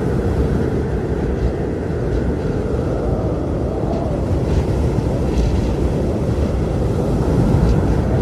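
Strong blizzard wind blowing steadily, heavy in the low end, with a faint howl and a few brief hissing gusts.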